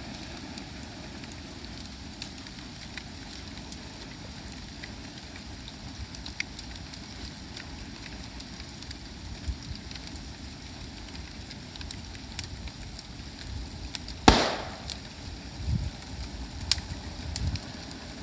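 Bonfire crackling steadily with scattered small pops. About 14 seconds in comes one loud sharp crack, followed by a few dull knocks.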